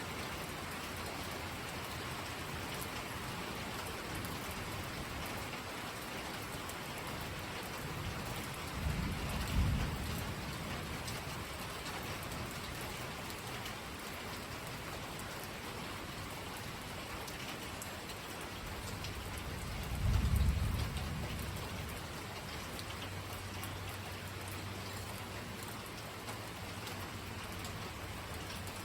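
Steady rain falling, with two low rolls of thunder, one about a third of the way in and another about two thirds in, each lasting a second or two.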